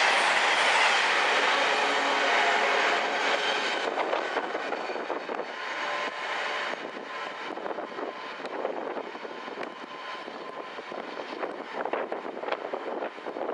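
Freight train running past on the line and receding, its rumble fading steadily, with scattered clicks from the wagon wheels as it goes.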